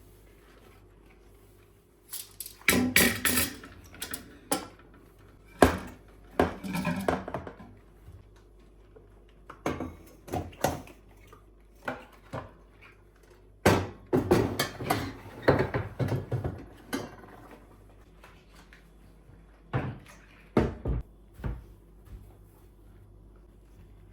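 Household objects being handled and set down: irregular knocks and clatters in bunches, with short rustling stretches between them.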